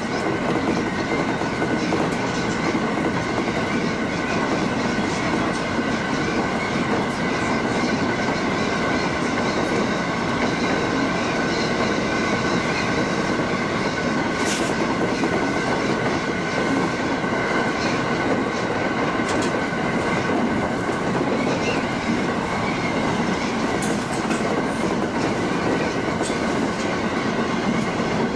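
Train running along the line as heard from the cab: a steady rumble of wheels on rail with a held high hum and scattered clicks, one sharp click about halfway through.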